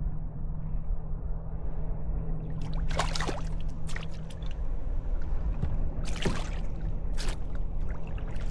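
Water splashing at the surface several times, in short bursts starting about three seconds in, over a steady low hum.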